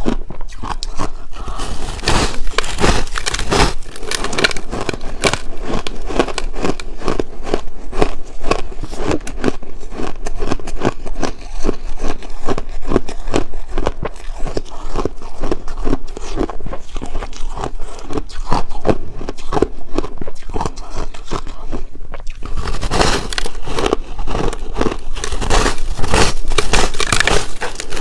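Chunks of ice being bitten and chewed: a dense, continuous run of crunches and cracks, heavier and denser in the last few seconds.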